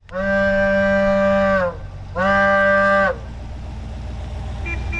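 Vehicle horn sounding two long, steady blasts, the first about a second and a half and the second about a second, over the low rumble of the idling 360 V8.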